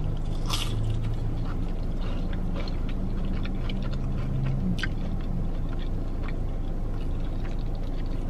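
A person biting into and chewing a fried chicken finger: small scattered crunches and mouth clicks over a steady low hum in the car.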